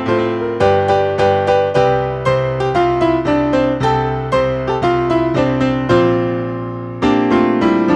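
Solo piano music: notes and chords struck one after another and left to ring.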